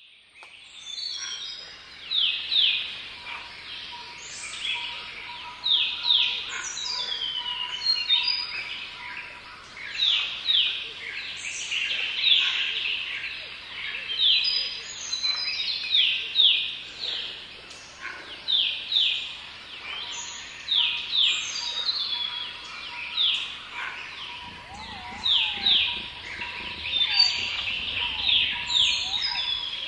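Small birds chirping: quick, short sweeping calls in clusters of two to four, repeated every second or so. Faint rustling and handling noise joins in near the end.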